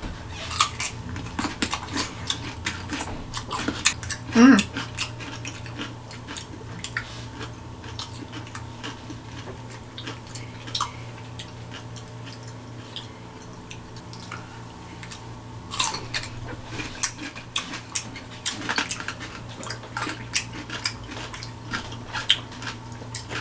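Two people biting into and chewing crisp whole dill pickles close to the microphone: a stream of wet crunches and chewing clicks. A short hummed vocal sound about four and a half seconds in is the loudest moment.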